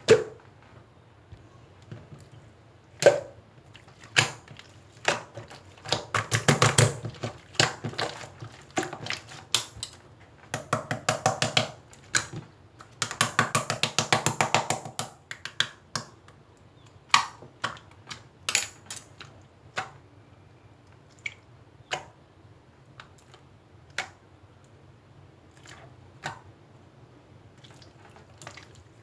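Scattered sharp clicks and taps, with three stretches of rapid clicking, the longest about two seconds.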